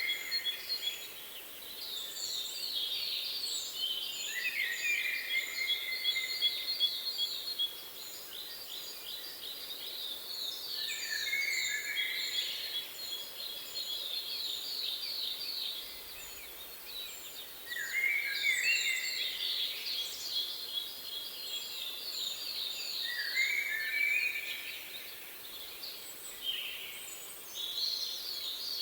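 Songbirds singing in repeated phrases, each a short falling whistle and a fast, rapid trill, coming back about four times over a steady background hiss.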